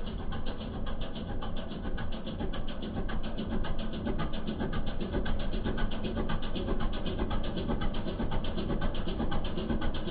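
Belarus tractor's D21A two-cylinder air-cooled diesel engine running steadily, with an even, rapid firing pulse.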